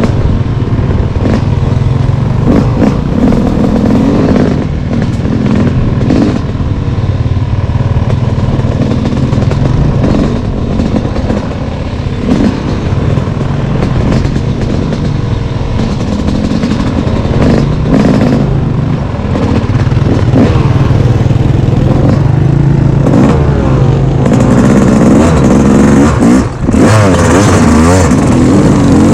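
Off-road engine running under changing throttle, revving up and down in the last few seconds, with clattering knocks from the rough trail.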